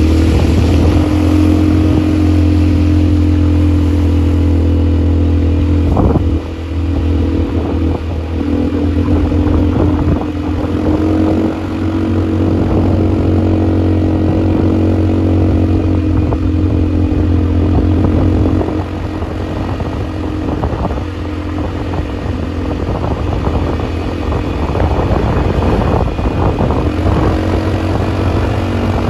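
ATV engine running steadily under way, its note easing off briefly a few times, with occasional knocks and rattles from the ride.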